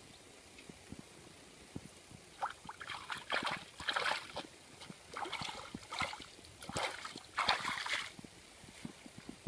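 Water splashing in a run of short, uneven bursts from about two seconds in until about eight seconds in.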